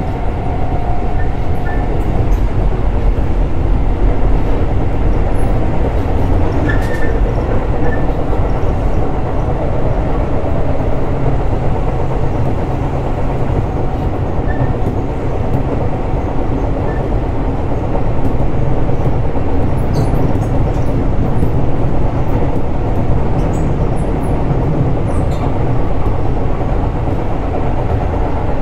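Keisei 3600 series electric train running along the track: a steady rumble of wheels on rail, with a few faint light clicks.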